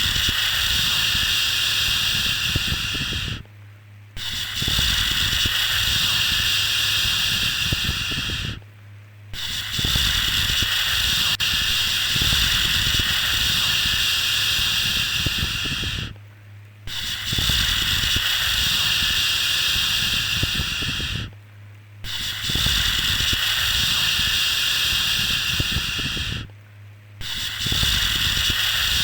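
Long, steady 'shhh' shushing, each shush held for about four to seven seconds with a short breath-like pause between, repeated over and over. It is a soothing shush for settling a baby to sleep.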